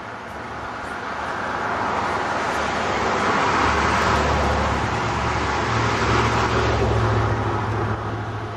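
A motor vehicle passing close by. Its engine hum and running noise swell up, hold for a few seconds, then fade near the end.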